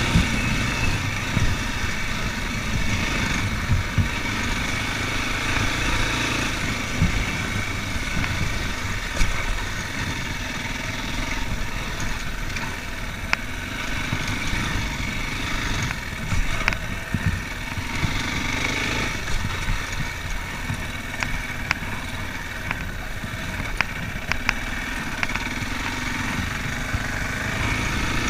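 Racer Panther 300 enduro motorcycle's engine running steadily while riding off-road, with scattered short knocks.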